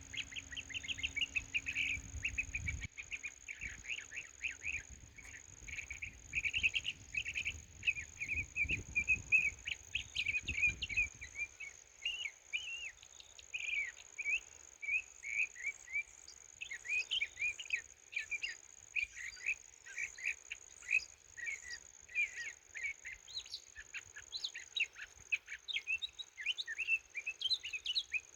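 Birds chirping and singing, a dense run of short, quick chirps going on without pause, over a steady, thin, high-pitched tone. A low rumble underneath stops about eleven seconds in.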